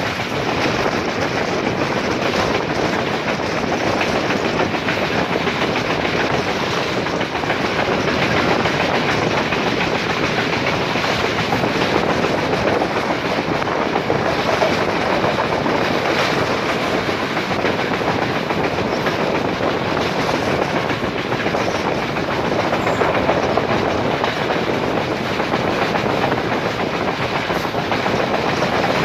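Express passenger train running steadily along the line: a continuous rolling rumble of wheels on rail, with faint knocks scattered through it.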